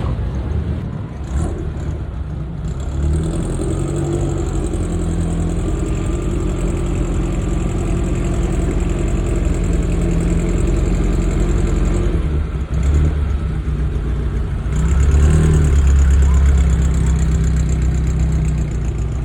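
A classic car's engine running steadily, then louder for a couple of seconds about fifteen seconds in.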